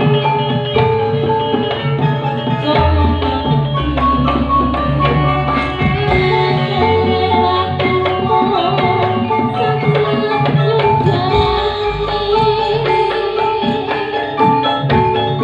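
Campursari music playing, an instrumental passage: a busy hand-drum rhythm over sustained melody notes and a bass line.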